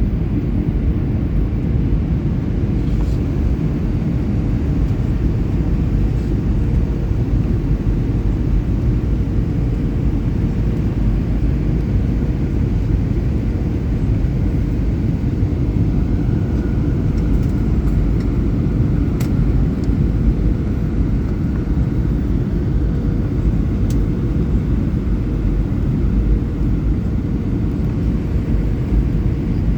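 Steady low rumble of a jet airliner, with a faint steady hum running through it.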